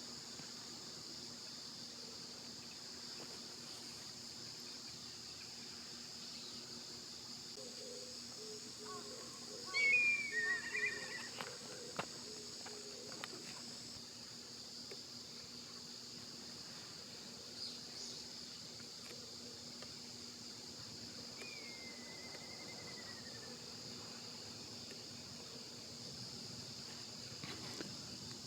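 Steady high-pitched insect chorus. About ten seconds in there is a short burst of chirping, and about two-thirds of the way through a single falling whistled call.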